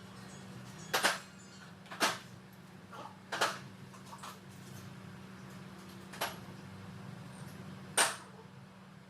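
Five sharp knocks, spaced irregularly about a second or more apart, over a steady low hum. The loudest knock comes near the end.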